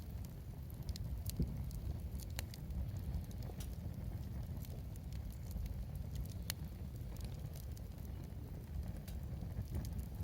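Wood fire burning, crackling with scattered sharp pops over a low steady rumble.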